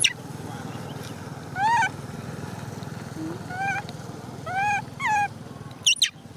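Young macaque crying: about four short whimpering calls that rise and fall in pitch, and two sharp high squeals, one at the start and one near the end, over a steady low hum.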